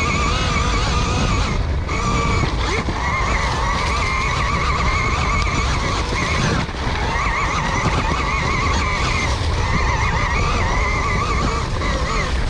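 KTM Freeride E-XC electric dirt bike's motor and drivetrain whining while riding, the pitch wavering up and down with the throttle over a steady low rumble. The whine dips briefly twice.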